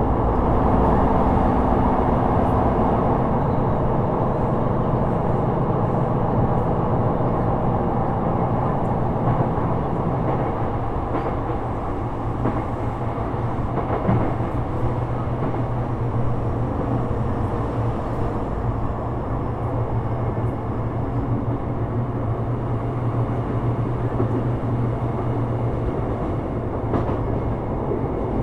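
Sotetsu 12000 series electric train running at speed, heard from inside the car: a steady rumble of wheels on rail that eases slightly about ten seconds in.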